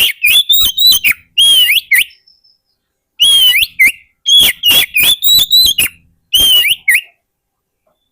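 Oriental magpie-robin (kacer) singing: loud, clear whistled notes with quick rising and falling slurs, in two runs of phrases with a short pause about two to three seconds in, stopping about a second before the end.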